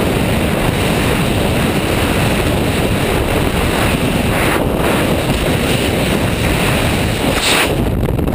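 Loud, steady rush of air buffeting a helmet camera's microphone during a skydiving freefall.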